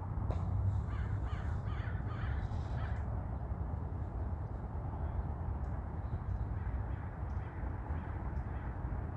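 A bird calling repeatedly in the first three seconds, over a steady low rumble.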